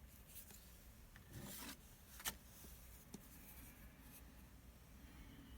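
Faint handling noises over low room hum: a brief rubbing about a second and a half in, a sharp click just after two seconds and a lighter tick a second later.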